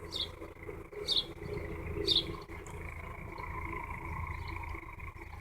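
A small bird chirping, three short high calls about a second apart, over a steady low hum and rumble.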